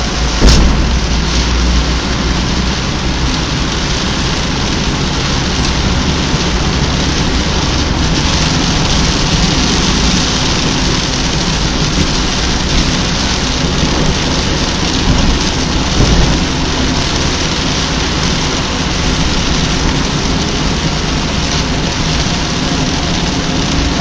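Heavy rain pouring steadily, with a sharp thunderclap about half a second in and a low rumble after it.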